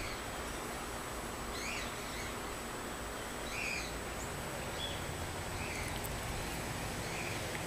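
A bird calling with short chirps that rise and fall, about five times, spaced roughly every one to two seconds, over a steady outdoor background hiss.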